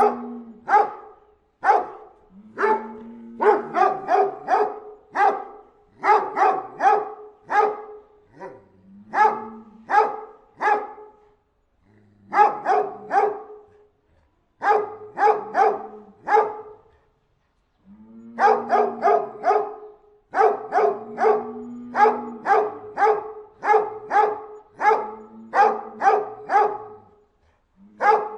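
A dog barking in quick runs of three to five barks, the runs repeating with short pauses between them.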